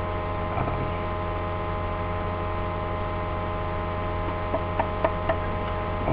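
Steady electrical mains hum, with a few light clicks about four and a half to five and a half seconds in.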